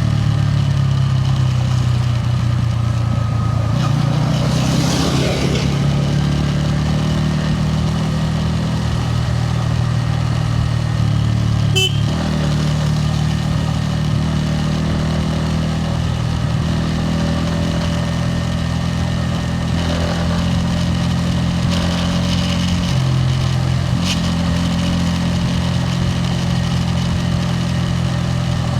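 Bajaj Pulsar N160's single-cylinder engine and exhaust running under way, its note stepping up and down in pitch with throttle and gear changes. One sharp click near the middle.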